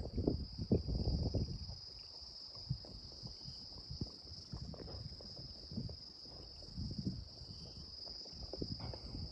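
A steady, high insect chorus of crickets or cicadas, with irregular low knocks and rustling from hand work close by, busiest in the first second or so.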